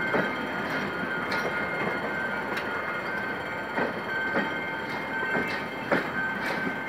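Passenger coaches rolling past on the track, a steady rolling rumble with wheel clacks over the rail joints at uneven intervals. A thin, high squeal comes and goes.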